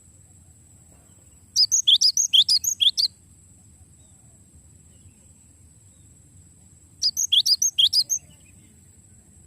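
Glatik batu (cinereous tit) singing two quick runs of sharp, high chirps, each run about a second long. The notes come several a second and each one falls in pitch.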